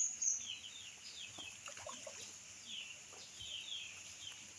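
Birds chirping: a steady run of short, high, falling chirps, about two or three a second.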